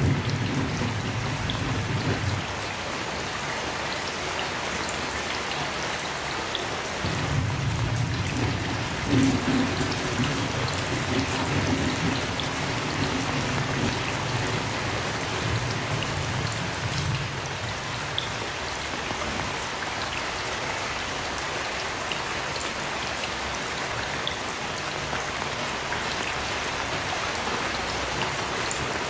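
Heavy rain falling steadily, with low rumbles of distant thunder rolling in and fading: one near the start, a long one from about 7 to 13 seconds in, and a shorter one around 16 seconds in.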